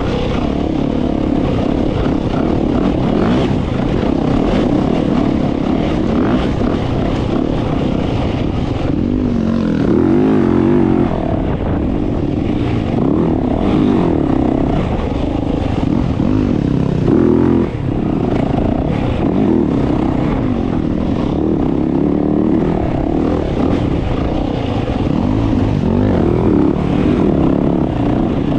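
Dirt bike engine running hard, its pitch rising and falling continuously as the rider revs up and rolls off the throttle, with a brief drop about two-thirds of the way through.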